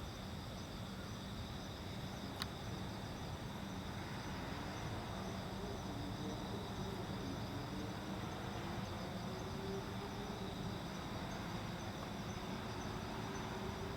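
Steady chorus of autumn crickets and other insects trilling, over a low hum. A faint tone slowly wavers upward in the second half, and there is a single brief click about two and a half seconds in.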